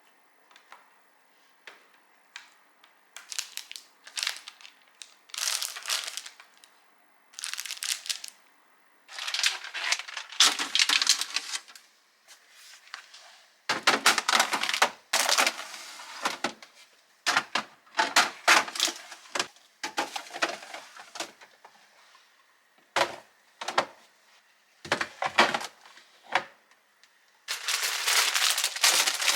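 Plastic grocery packaging crinkling and rustling as it is handled, with short sharp clicks and knocks of items being set down.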